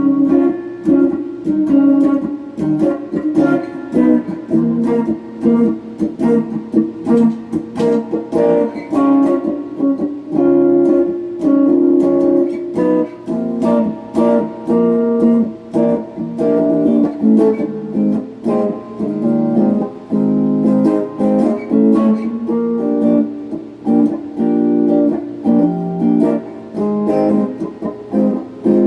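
Semi-hollow electric guitar, a Donner '72 Thin-style clone, strumming and picking chords through a phaser and a Klon-style overdrive into a Peavey Backstage Plus amp, each chord ringing briefly before the next.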